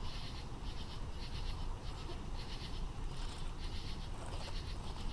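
Night insects chirping in a steady rhythm, a pulse of high, buzzy chirps about every half second, over a low background rumble.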